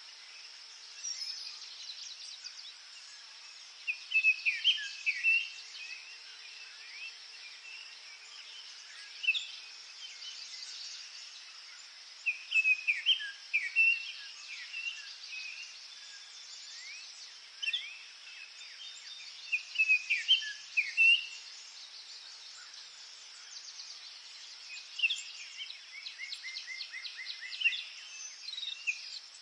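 Songbirds singing in the woods, short whistled phrases of rising and falling notes every few seconds, several of them in a burst near the end, over a steady high hiss of background forest ambience.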